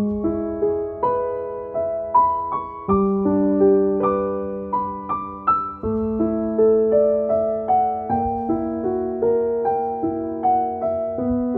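Background music: gentle solo piano playing a slow arpeggiated melody over held bass notes that change about every three seconds.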